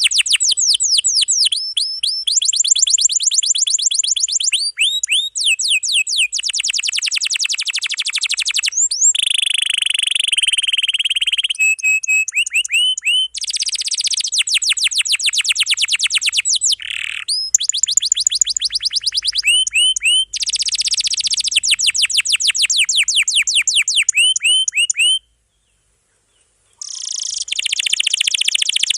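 Domestic canary singing in full song: long, rapid rolling trills of repeated notes, switching from one trill to the next at different pitches every second or two. The song cuts out completely for about a second and a half near the end, then resumes.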